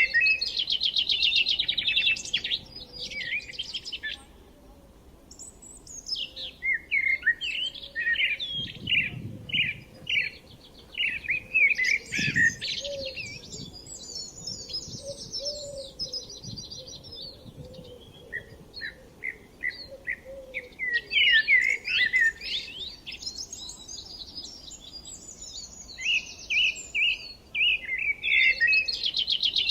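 Songbirds singing and chirping in bursts of quick, high-pitched notes and rapid trills, easing off briefly twice.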